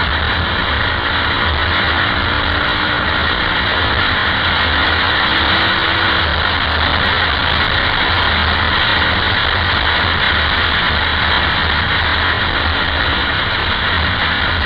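KTM 520 EXC supermoto's single-cylinder four-stroke engine running steadily at road speed, heard onboard under a dense rush of wind noise.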